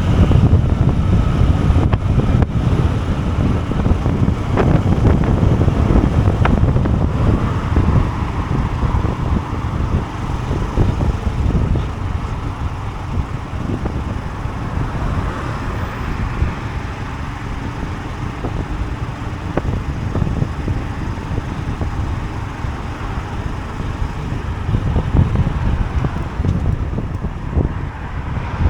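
Wind buffeting the microphone over a Honda CB125F's small single-cylinder engine running on the move. The sound is louder for the first several seconds and eases a little from about ten seconds in.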